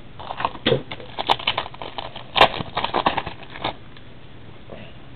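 2008 Donruss Gridiron Gear football card packs being handled: a quick run of crackles and clicks from the foil wrappers and cards for about three and a half seconds, then it stops.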